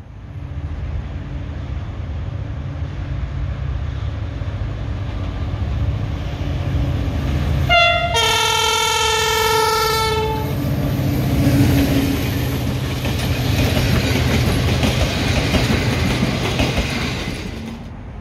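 Train passing with a steady rumble, sounding its horn for about three seconds midway: a brief higher note, then a longer lower one. After the horn the rushing and clatter of the passing train grow and hold, then drop away near the end.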